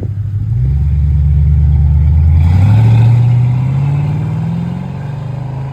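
Impala SS clone's 4.3-litre L99 V8 with a chambered Flowmaster exhaust, accelerating away. The exhaust note swells, climbs in pitch about halfway through, then fades as the car pulls off.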